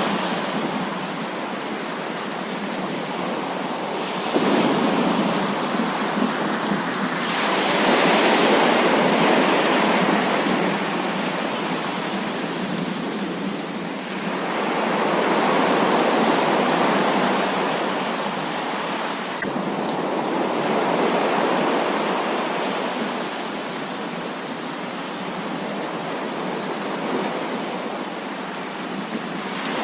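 Heavy rain falling in a steady downpour, its level swelling and easing every several seconds, with a sudden step up a little after four seconds.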